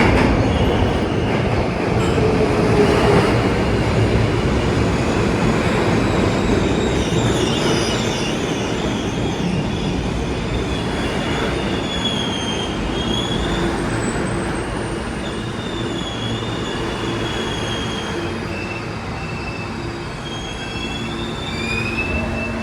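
New York City subway train running on the rails, with a steady rumble and the wheels squealing in thin, wavering high tones that come and go from about a third of the way in.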